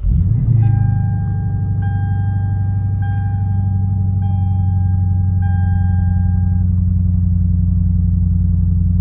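Lexus IS F 5.0-litre V8 with an X-Force cat-back exhaust on stock headers, starting up with a loud burst and then settling into a steady idle, heard from inside the cabin. A dashboard warning chime beeps repeatedly over the idle for about six seconds.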